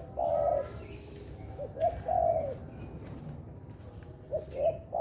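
Spotted dove (tekukur) cooing: a three-part call of two short notes and a longer coo, repeated about every two to three seconds.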